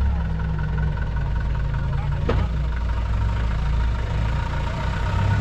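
Four-wheel-drive engine idling steadily with a deep hum, and a single sharp click about two seconds in.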